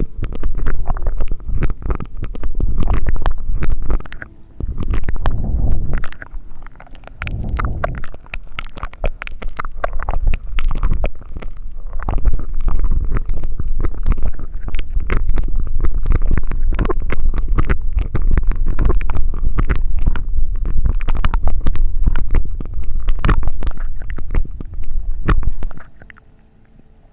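Close-miked ASMR mouth sounds made with a drinking straw: a loud low rumble dotted with many small clicks, with brief lulls, cutting off abruptly near the end.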